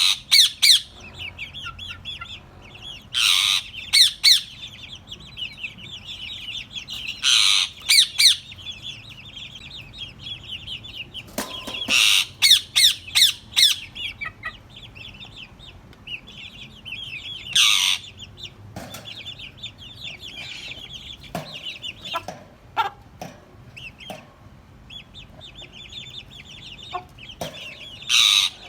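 Parrot chattering steadily in a high register, with louder calls breaking in every few seconds, including a quick run of them about twelve seconds in.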